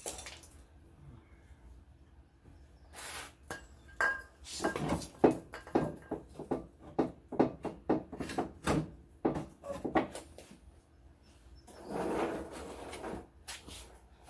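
Hands and tools pulling and prying at plastic trim around a car's fuel filler neck: a string of irregular knocks, clicks and rattles, with a longer scraping rustle near the end.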